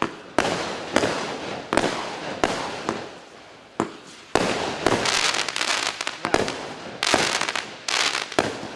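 Klasek 'Fireworks show 192' firework cake firing shot after shot, each a sharp bang followed by a fading hiss of the burst. About four and a half seconds in, the shots come closer together and the bursts fill in with dense crackling.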